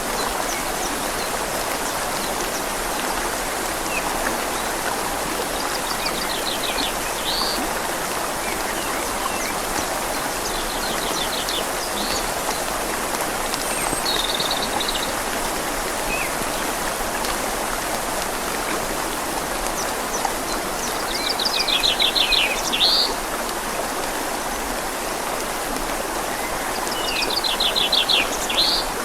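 Steady rain falling on leaves over a flowing river, an even hiss of water. A small bird's rapid trilled call, ending in a quick upward note, sounds five times through it, louder near the end.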